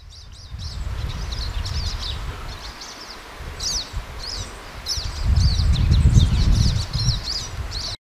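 A small songbird twittering: a run of quick, high chirps that keeps going throughout. Under it is a low rumble that swells for a couple of seconds in the second half.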